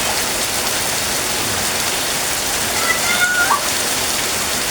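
Rain falling steadily and heavily. About three seconds in, a brief high-pitched call sounds over it.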